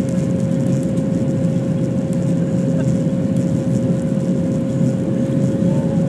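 Boeing 737 jet engines running steadily at takeoff, heard as a loud, even roar with a single steady hum tone over it.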